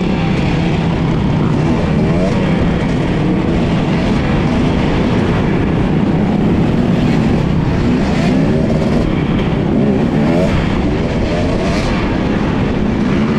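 Dirt bike engines revving, a continuous loud din with several overlapping pitches rising and falling throughout.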